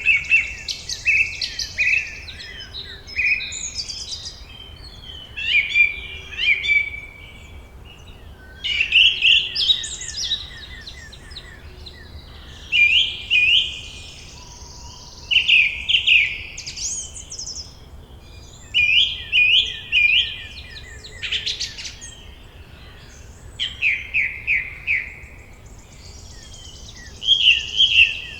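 Songbirds singing: short phrases of quick chirps and trills coming every few seconds, over a faint steady background hiss.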